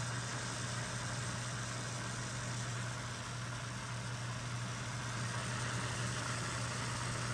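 KRK Rokit 5 G2 studio monitor speakers giving off a steady crackling hiss over a low hum, with no input cables connected. It comes on when they are switched on after a long rest, and the owner guesses a faulty capacitor.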